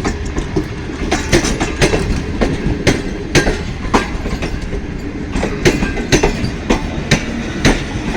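Wheels of a departing passenger train's coaches clattering over the rail joints: a steady rumble with sharp, irregular clicks, about two to three a second.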